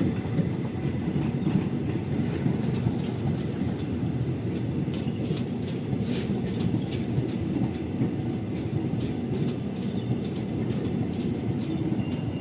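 INKA-built KRL commuter electric multiple unit passing slowly, with a steady rumble of wheels on rail and light clicking as the wheels cross the rail joints.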